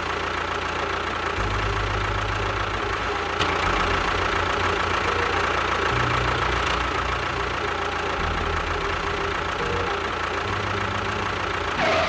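Tractor engine running steadily at idle, its low chug shifting in pattern every two seconds or so.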